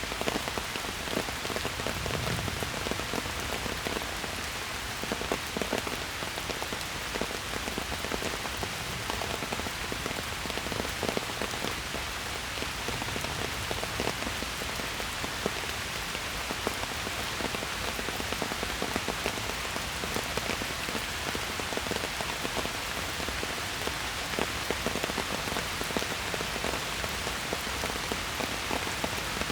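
Steady rain falling in a forest, many individual drops pattering on leaves and ground in a dense, even hiss.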